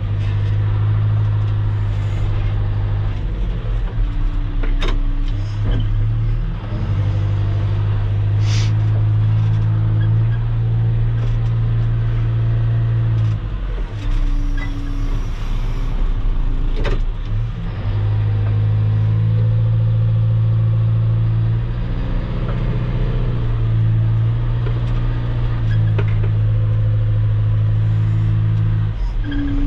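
Heavy equipment engine running steadily while spreading and dragging gravel road base, its pitch and load stepping up and down several times. A few sharp clanks or knocks stand out.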